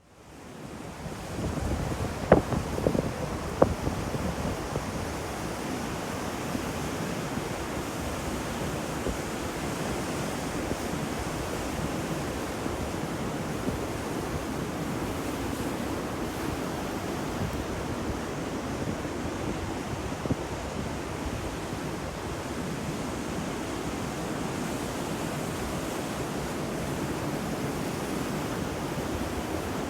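Sea waves breaking and washing on the shore in a steady, unbroken surf noise, with wind over the microphone. The sound fades in at the start, and a few sharp splashes stand out two to four seconds in.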